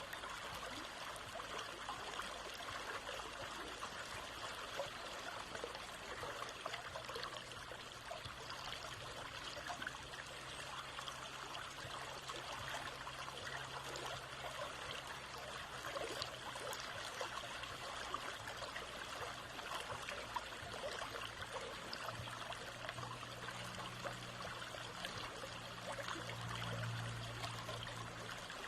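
Water flowing and trickling steadily, like a small stream. A low steady hum comes in near the end.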